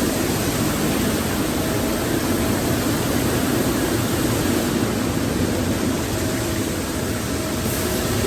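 Car wash tunnel machinery running, a steady rushing noise with a few faint steady hums underneath.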